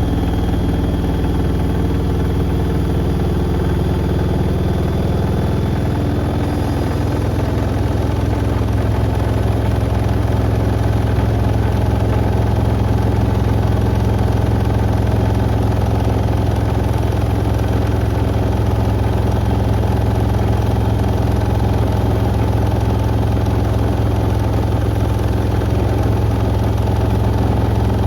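Beko WM74135 washing machine spinning its drum at speed with a steady motor hum; its tone shifts slightly about six seconds in.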